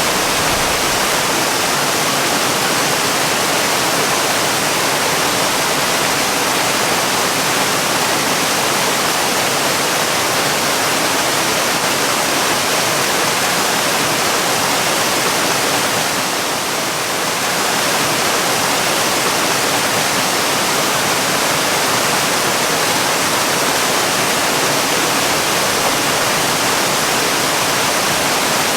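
Waterfall: a steady, unbroken rush of falling water, a hiss strongest in the upper pitches. It eases slightly for a moment about halfway through.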